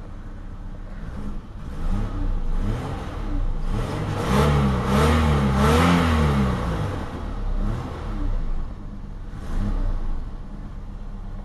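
Eagle Premier engine, just started after sitting two months, revved up from idle several times. The biggest and longest rev comes about four seconds in, with smaller blips after it. The revving is to blow out carbon and the ether sprayed in to start it.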